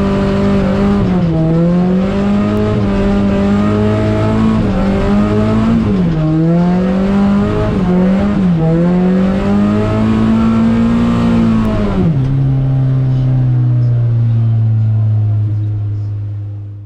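Mazda MX-5 Miata's 1.6-litre four-cylinder engine held at high revs, the pitch rising and dipping repeatedly as the throttle is worked through a drift. About twelve seconds in the revs drop to a steady lower pitch, and the sound fades out at the very end.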